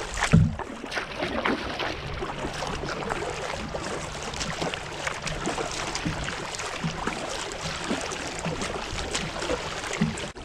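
Paddling a plastic kayak: water splashing and crackling against the hull with the paddle strokes, and a dull knock on the hull about a third of a second in.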